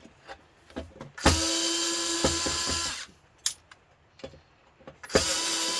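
Power drill running in two bursts of about two seconds each, a steady whine, with a few sharp clicks between the runs.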